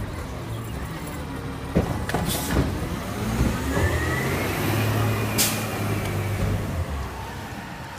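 Garbage truck working a yard-waste pickup: the engine runs and rises in level from about three and a half seconds in, with a rising whine over it. Clunks come near two seconds, and short bursts of air hiss come at about two and a half and five and a half seconds.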